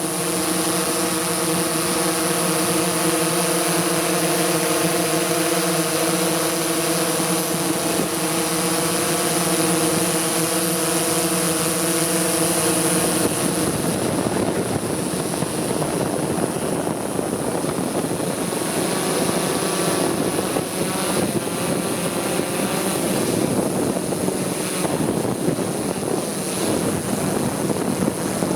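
Multicopter drone's propellers whining in flight, a steady stack of tones over a rushing noise. About halfway through the tones fade, leaving mostly a rougher rushing sound.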